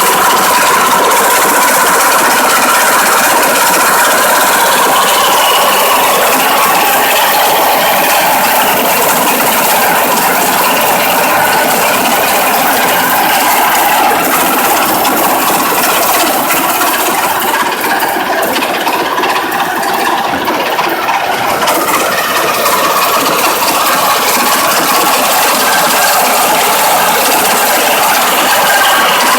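Pumpkin-harvesting combine at work: its 16 hp petrol engine runs under the steady, dense clatter of the seed-separating mechanism. The sound eases a little about two-thirds of the way through.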